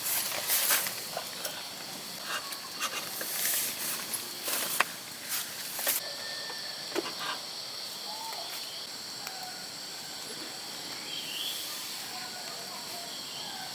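Forest ambience: a steady high trill of insects, with birds chirping in short calls that slide in pitch. During the first half there are several brief rustling, scuffing noises.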